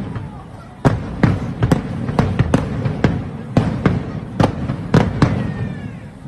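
Fireworks display: aerial shells bursting in a quick irregular run of about a dozen sharp bangs, roughly two a second, some in close pairs, over a continuous low booming rumble.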